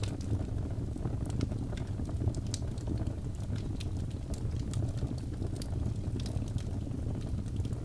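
Fireplace fire crackling: a steady low rumble of flame with irregular sharp pops and snaps, several a second.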